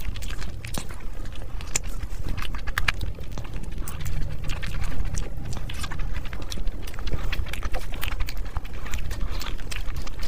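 Close-miked chewing and lip-smacking of spicy fried rice and chicken in curry sauce eaten by hand, a dense run of short wet clicks and smacks. Fingers squish into the sauce-soaked rice near the end.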